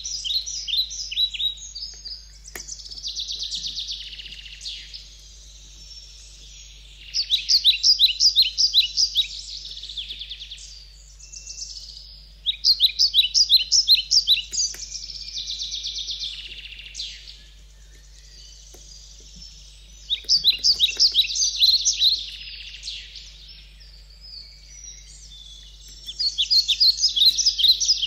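A songbird singing: loud phrases of quick chirps running into a buzzy trill, repeating every five or six seconds, over a low steady hum.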